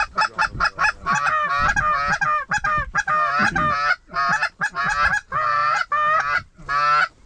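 Hand-blown Canada goose call (a honker call) blown in a quick run of honks and clucks, then stopping abruptly near the end. It is lower pitched than a lesser goose call.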